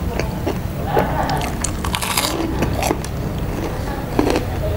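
Close-miked chewing of crispy deep-fried tofu puffs (tahu garing), with irregular crisp crunches and wet mouth sounds and a denser burst of crunching about two seconds in, over a low steady hum.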